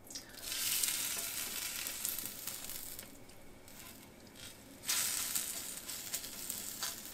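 A corn tortilla dipped in birria consommé sizzling on a hot stovetop griddle as it goes down. The sizzle eases after a few seconds, then flares up loudly again about five seconds in as more wet shredded birria meat is laid on it.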